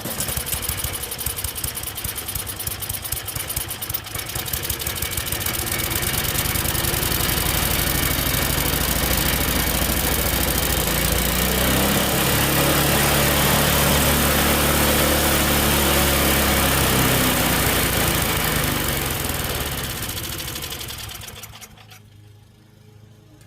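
Tecumseh small engine on a snowblower, with a freshly cleaned carburettor and its governor just reconnected, firing up at once and running. It revs up a few seconds in and holds a fast, steady speed, then slows and dies about 21 seconds in.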